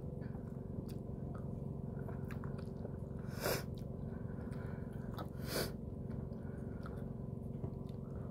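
Chewing and biting while eating a macaroni meal, over a steady low hum. Two short, loud hissing noises come about three and a half and five and a half seconds in.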